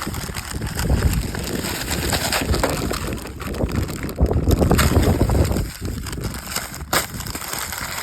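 Wind buffeting the microphone, a fluctuating low rumble that swells about four seconds in, with a few sharp clicks.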